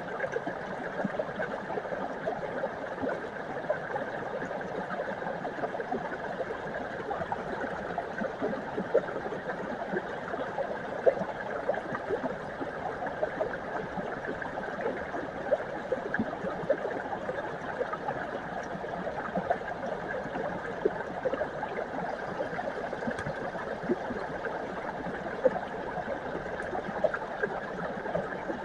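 Mountain brook flowing and babbling steadily, with many small quick gurgles and splashes.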